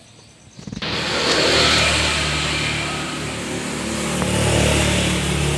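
A motor starts suddenly about a second in and keeps running loudly and steadily, with a low hum under a wide hiss.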